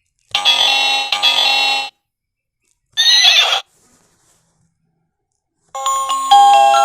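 Electronic learning toy's speaker in its music mode playing sound effects: two short chime-like bursts, a brief wavering-pitched sound about three seconds in, then a simple tune of stepped notes starting near the end.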